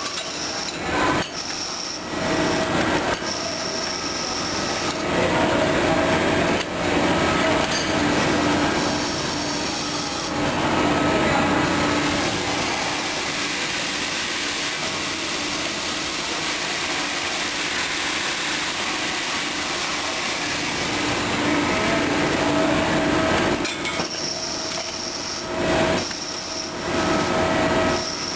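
CNC machining of piston rings: a steady cutting and rubbing noise of the machine at work, with a high whine that sounds for a few seconds at a time and drops out through the middle stretch.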